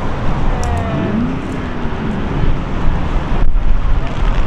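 Outdoor street ambience: a loud, steady low rumble of road traffic and wind buffeting the microphone.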